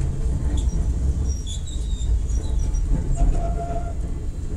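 Enoden electric train (10-type and 1000-type cars) running, heard from inside the passenger cabin: a steady low rumble of wheels and motors, with a few brief high squeaks about a second and a half in.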